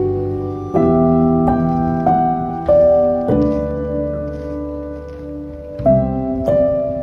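Slow, gentle piano music: chords and single notes struck every half second to couple of seconds, each one ringing on and fading.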